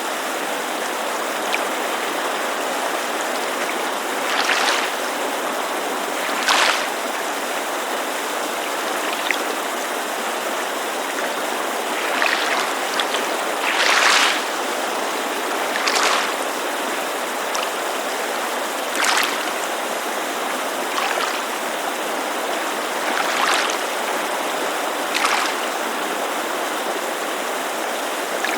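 Steady rush of a mountain creek, with small waves lapping against a lakeshore in short splashes every couple of seconds, at irregular intervals.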